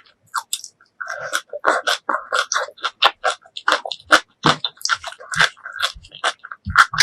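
Close-miked eating: crunchy bites and chewing, a rapid run of crisp clicks and smacks that starts about a second in.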